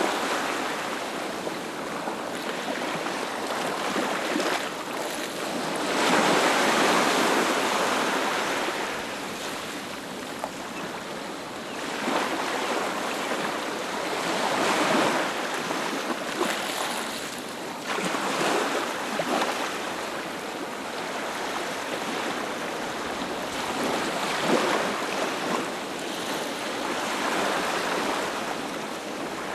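Ocean waves breaking and washing up a beach, a steady hiss of surf that swells with each breaker every few seconds.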